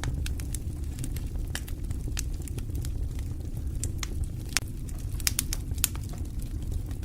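Wood fire in a fireplace crackling, with irregular sharp pops and snaps over a low, steady rumble.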